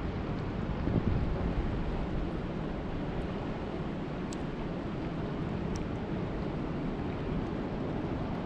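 Steady rush of lake water, mixed with wind buffeting the microphone, swelling briefly about a second in, with two faint ticks near the middle.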